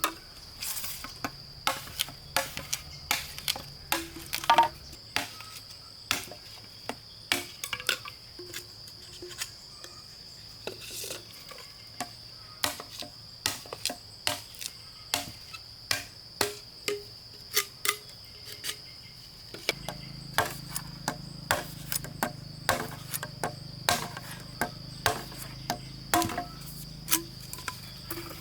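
Insects chirring steadily at a high pitch, with irregular sharp knocks of hand-tool strikes on wood, about one or two a second.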